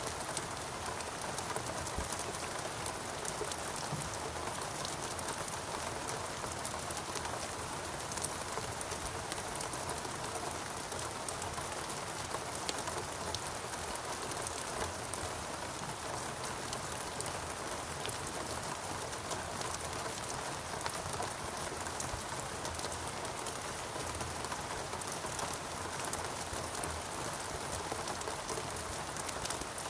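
Steady rain falling in a rainforest, a constant hiss with many small drop ticks and no lulls.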